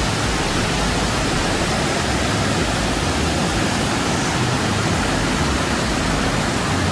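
Heavy rain falling in the forest: a loud, steady, unbroken hiss.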